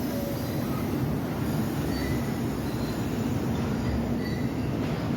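New York City Subway R68 train running, a steady low rumble with a few brief, faint high squeals from the wheels on the rails.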